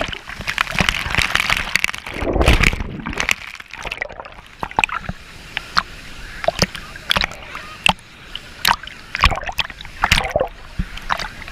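Water splashing and sloshing in irregular close strokes over the rush of the Roberto Barrios cascades.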